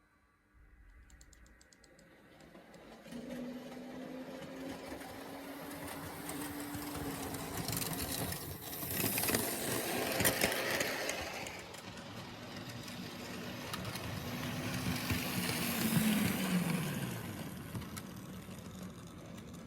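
H0 scale model train running on the layout's track: a small electric motor hums while the wheels rattle and click over the rails. It grows louder twice as it passes, and near the end the motor hum drops in pitch as the train slows.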